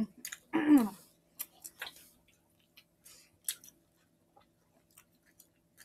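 People chewing mouthfuls of fast-food burger, with a scatter of short wet mouth clicks and smacks. There is a brief voiced sound with falling pitch about half a second in.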